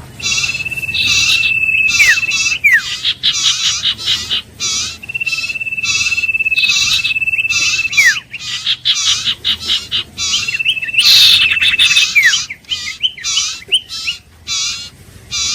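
Iora singing: a long, level whistle that ends in a quick downward slur, given three times. Behind it runs a dense, fast series of short repeated chirps.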